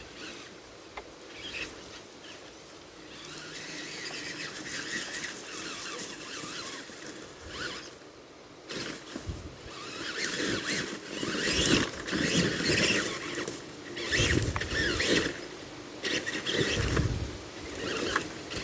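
Tamiya TXT-2 RC monster truck driving over rough ground, its motor and gears whining up and down with the throttle. The tyres crunch through sticks and dirt, and heavy bumps and thuds come in the second half.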